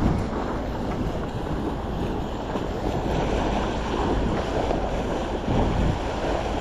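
Wind buffeting the microphone over the rush of water along the hull of a yacht under way: a steady noise with no distinct events.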